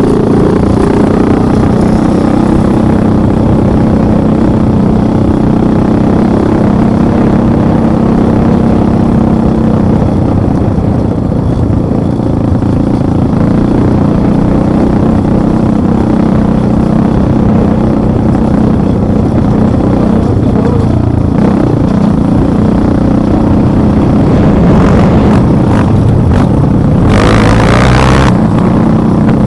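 Motorcycle engine running while riding, a loud steady drone that holds its pitch with small changes. A short burst of hissing noise comes near the end.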